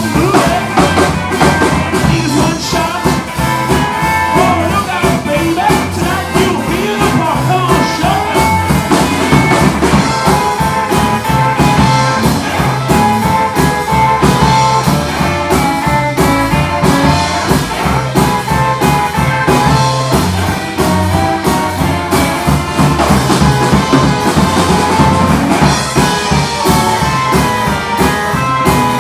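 Live rock and roll band playing an up-tempo rockabilly number with a steady driving beat.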